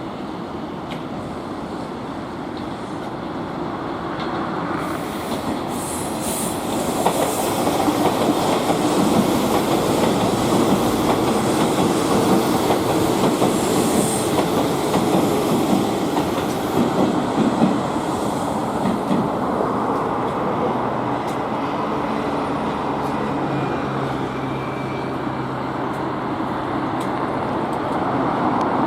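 Hanshin 8000 series electric train passing, wheels clacking over the rail joints. It grows louder over the first several seconds, is loudest for about ten seconds with a brief high squeal partway through, then eases to a lower steady rumble.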